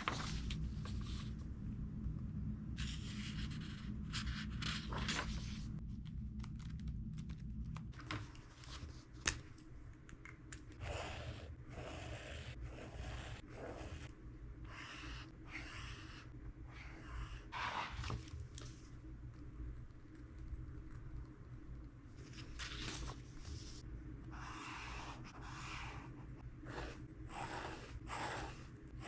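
Pen and highlighter strokes scratching across a book's paper pages: a run of short scratches with brief pauses between them, over a steady low hum. One sharp tap about nine seconds in.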